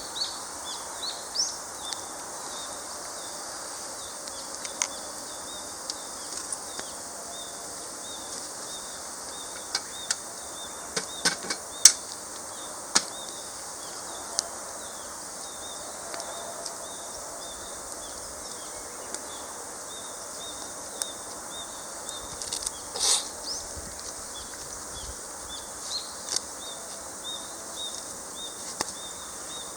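Wood campfire crackling, with scattered sharp pops from the burning wood, a cluster of them about a third of the way in and a loud one past the middle. Behind it runs a steady high chirping of insects and birds.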